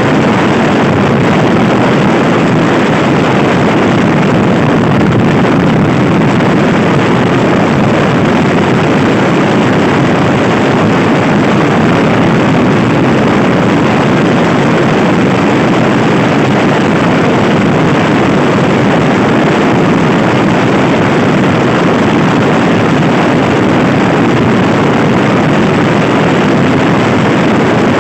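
Loud, steady wind noise buffeting the microphone of a Honda Scoopy i scooter ridden at speed, drowning out the engine.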